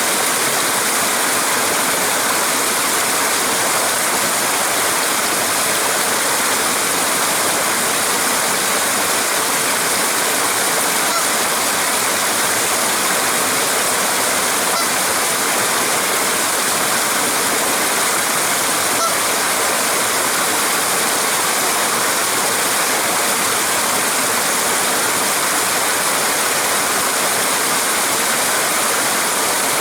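Water pouring over a small waterfall: a steady, unbroken rush of falling and churning water.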